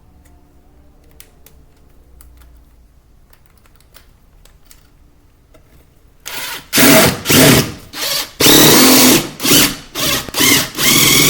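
Power drill driving screws in a series of loud bursts, starting about six seconds in, the trigger squeezed and released several times with the motor speeding up and slowing down; before that only faint clicks and handling.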